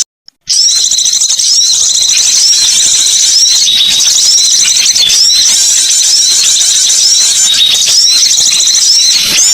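Recorded songbird calls: a dense, continuous stream of short, high-pitched chirps, many with a quick upward hook, played loud. The sound cuts out for about half a second at the very start, then resumes unchanged.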